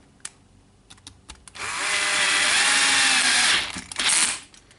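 Electric screwdriver running for about two seconds with a steady motor whine, driving in a brush-holder screw, followed by a short second burst. A few light clicks of handling come before it.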